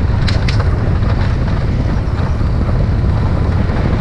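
Wind rushing over the microphone on a moving motorcycle, with the motorcycle's engine running underneath as a steady low drone. Two light clicks near the start.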